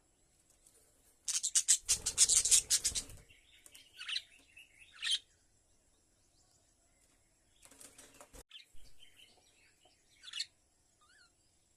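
A bird flapping its wings in a rapid flurry, the loudest sound, followed by short chirps; a second, shorter burst of wingbeats comes later, then another chirp near the end.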